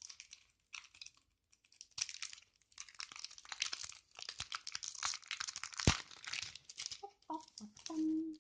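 Packaging being opened by hand: irregular crinkling and tearing, with a sharp click about six seconds in.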